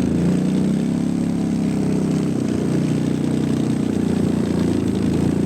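ATV engine running at a steady speed.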